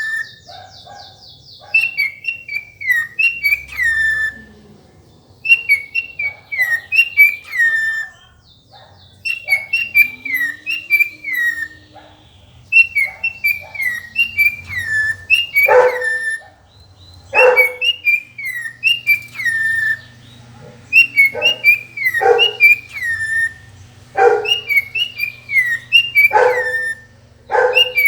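Cockatiel whistling a repeated phrase of short, falling whistled notes in quick runs, with pauses between the runs. From about halfway, short harsher calls break in between the whistles, repeated every second or two.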